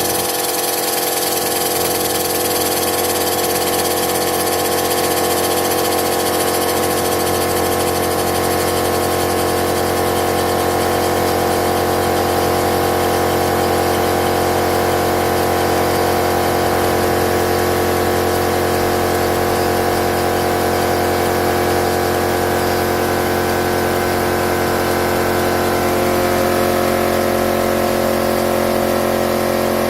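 Stuart Models James Coombes model engine running steadily on compressed air, its exhaust a fast, even beat. The speed shifts slightly about 26 seconds in.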